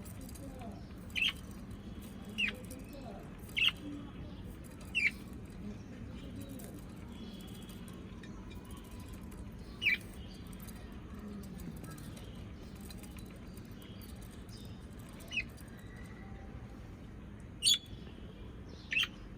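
A parrot giving short, sharp chirps, each falling quickly in pitch, about eight of them at irregular intervals, over a steady low background murmur.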